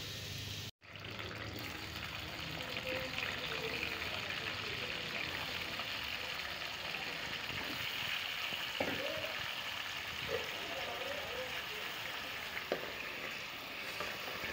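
Sliced onions sizzling in hot oil in an aluminium pot, stirred with a wooden spoon, with cubed raw potatoes then frying with them. It is a steady sizzle that cuts out briefly about a second in, with a few light knocks of the spoon later on.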